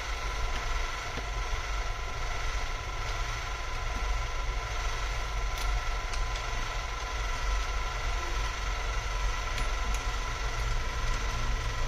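Steady machine hum with a constant high whine, and a few faint small clicks.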